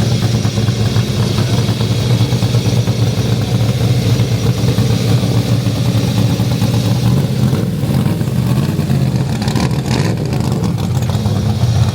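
Street-legal race car's engine running steadily at idle, loud, with a low rumble.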